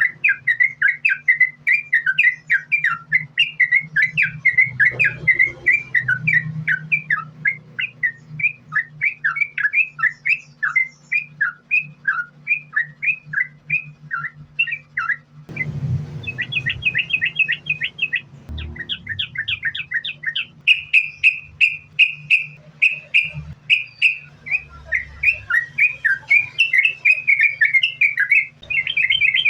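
Sooty-headed bulbul (trucukan) singing a long continuous run of quick chattering notes, several a second. About halfway the song breaks briefly, then resumes with faster trilled runs.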